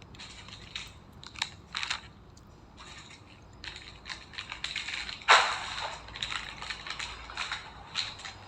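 Plastic snack and chocolate packaging being handled, crinkling and crackling in irregular bursts, with a louder crunch about five seconds in.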